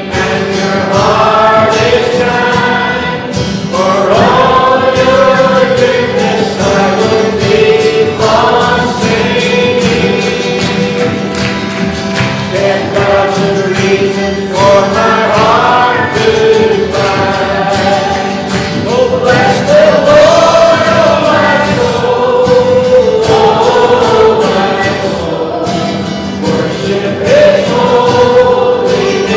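A church congregation singing a worship song together, many voices in unison over a steady instrumental accompaniment.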